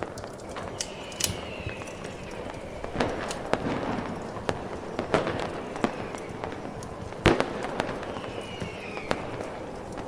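Fireworks popping and crackling at irregular intervals, the sharpest bang about seven seconds in, with two short falling whistles, over a steady rushing noise.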